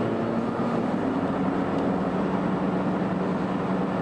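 Steady engine and road noise heard from inside a moving car's cabin, with a low, even hum.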